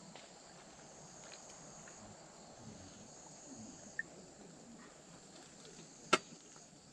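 Insects, likely crickets, chirping in a steady high-pitched drone. A single sharp click sounds about six seconds in.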